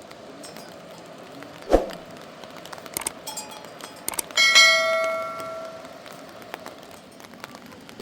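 A thud, a few light clicks, then a metal object struck once, ringing with several clear tones that fade over about a second and a half.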